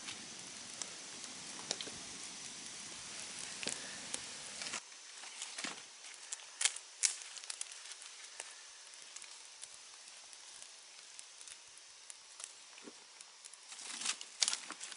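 Wood campfire crackling, with scattered sharp pops. A steady hiss runs for the first five seconds or so and then cuts off suddenly, leaving only occasional pops.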